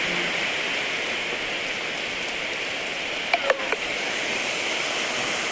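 Steady hiss of rain falling, with a brief cluster of sharp ticks about three and a half seconds in.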